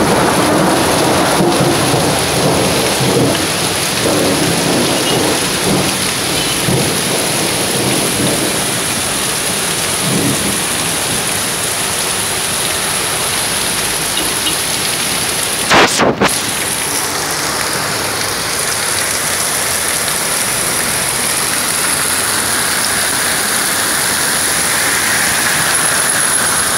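Heavy downpour hissing steadily on a flooded street, with low rumbling over the first several seconds. A brief sharp knock about sixteen seconds in is the loudest moment.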